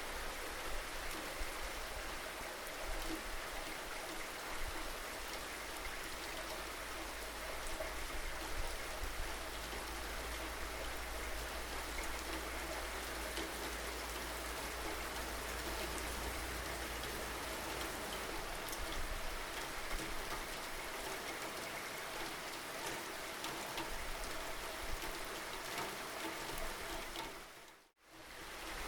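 Steady rain falling, with separate drops ticking now and then. Near the end the sound fades out to near silence for about a second, then returns.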